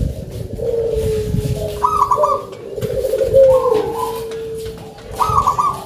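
Zebra dove (perkutut) cooing, a string of low, soft coo phrases repeated one after another.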